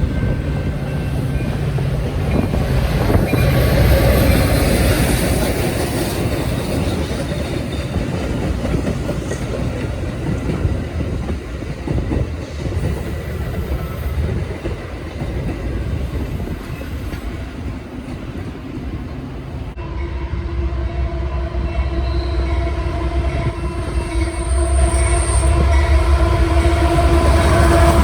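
A train passing on the rails, a steady rumble of wheels and cars. About twenty seconds in the sound changes and a steady pitched tone comes in over the rumble, getting louder near the end.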